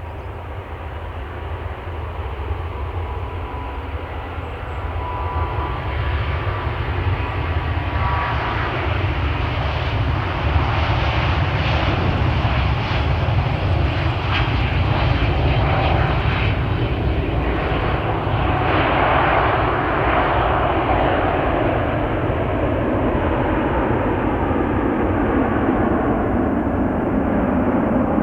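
Jet airliner's engines close by, the noise building over about ten seconds to a loud, steady rumble, with a thin whine in the first part.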